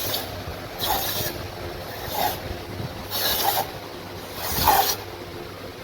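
Repeated rasping strokes of a hand tool, five of them, about one every second or so.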